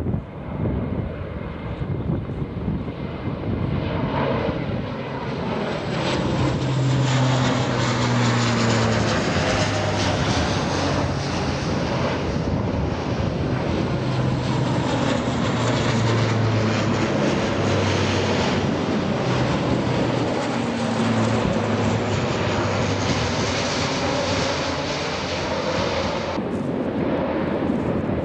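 Military aircraft flying past overhead: engine noise swells about four seconds in, holds loud with a steady low drone, and fades sharply near the end as it passes.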